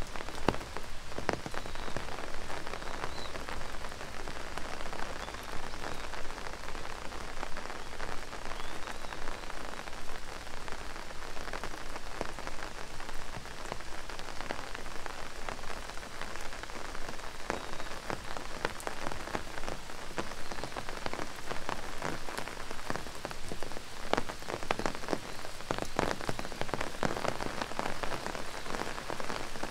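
Steady rain falling, with many individual drops striking close by, heard as scattered sharp taps over an even hiss.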